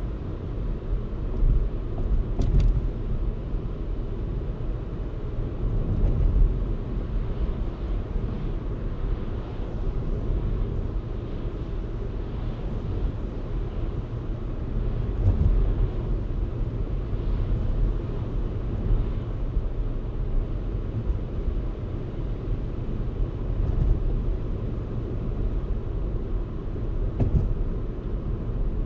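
A car driving on city streets, with a steady deep rumble of tyres and engine. A few brief knocks stand out over it.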